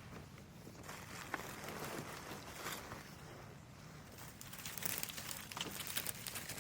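Dry leaves rustling and crunching in uneven bursts, as something moves through leaf litter, with a few sharp snaps.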